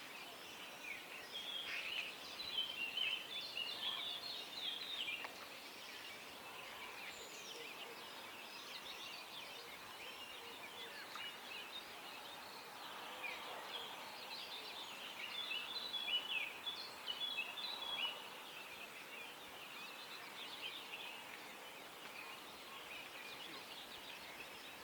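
Birds singing at dawn: several birds giving short chirps and trills over a faint steady background hiss, busiest a couple of seconds in and again past the middle.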